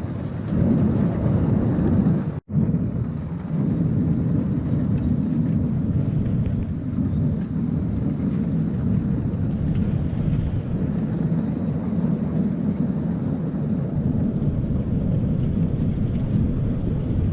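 Steady low rumble of a ride on a 7¼-inch gauge miniature railway train, with a momentary dropout about two and a half seconds in.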